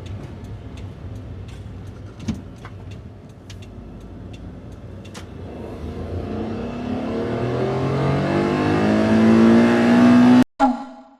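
Daihatsu Hijet kei van engine with stock intake and exhaust. It runs low with a few light ticks at first, then accelerates from about halfway, its pitch rising steadily. It cuts off suddenly near the end.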